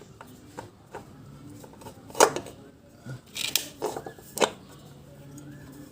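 Small metal-on-metal clicks and knocks while a new oil filter is handled and fitted to the engine. Four sharper clicks stand out, the loudest about two seconds in.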